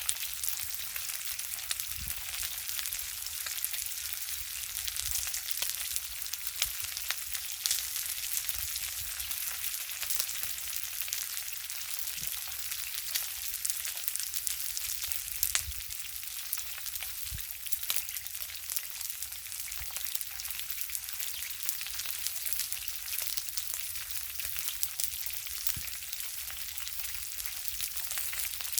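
Food sizzling on a grill over a wood fire: a steady hiss with frequent small crackles and pops.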